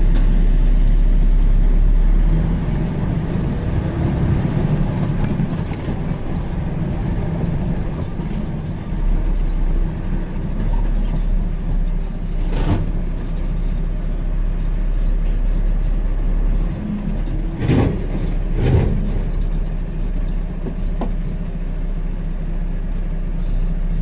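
Heavy truck's diesel engine running steadily as the truck pulls off the scale, with three sharp knocks in the second half.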